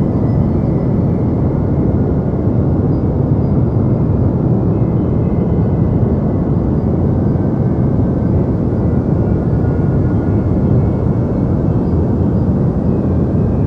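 Continuous deep white noise, an even, unchanging rush with most of its weight in the low range and little high hiss.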